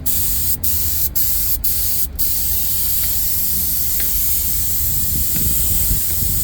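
Spray gun hissing as it lays a base coat of colour onto a car seat's repair. The spray cuts out briefly about every half second for the first two seconds, then runs steadily.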